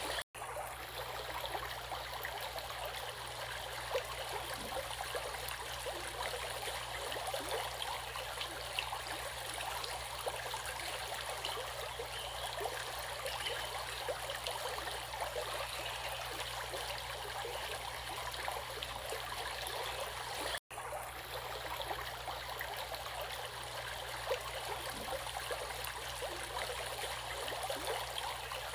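Stream water running and babbling steadily, with two momentary dropouts in the sound, one right at the start and one about two-thirds of the way through.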